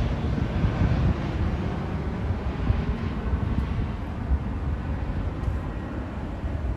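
Jet airliner passing low overhead on approach, its engine roar a steady rush that slowly fades away.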